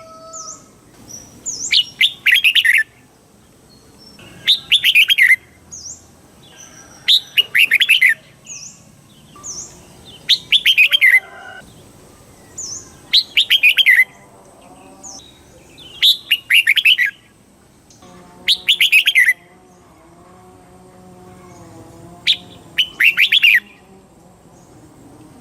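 Red-whiskered bulbul singing its short, rapid, warbling song phrase over and over, about one phrase every two to three seconds, with a longer pause near the end.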